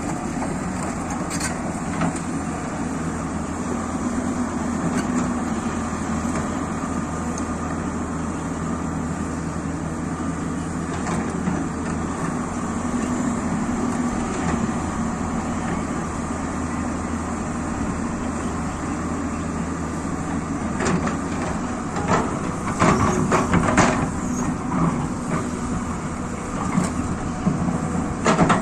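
Excavator's diesel engine running steadily, with a cluster of sharp metallic knocks and clatters about three-quarters of the way through and again near the end.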